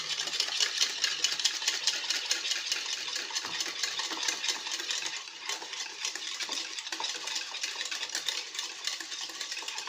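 A utensil stirring thick lemon cream in a saucepan, with rapid continuous scraping and clicking against the pot as a spoonful of butter melts into the hot cream. It stops abruptly at the very end.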